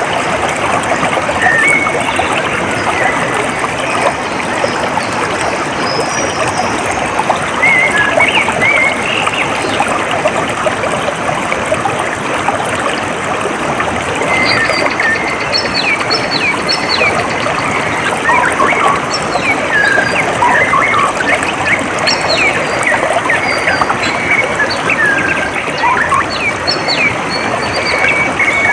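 Steady trickle of running water, with small birds chirping and whistling over it, more busily in the second half.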